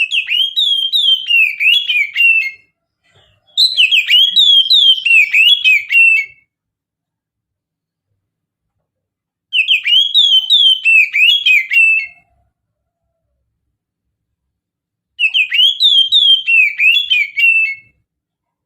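Oriental magpie-robin (kacer) singing in the mountain style: four bursts of about two and a half seconds each, made of rapid, repeated high notes that swoop down and up, with silent gaps between them.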